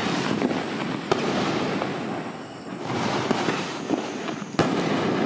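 Consumer fireworks going off: dense crackling throughout, with a sharp bang about a second in and another near the end, and a brief lull around the middle.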